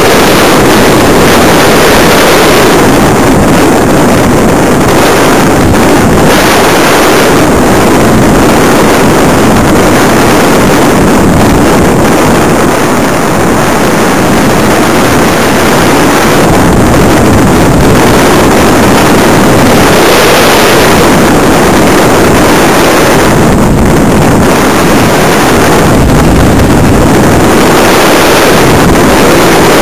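Steady, loud rushing of airflow over a small camera mounted on a flying RC electric glider, swelling and easing slightly as the glider's airspeed changes.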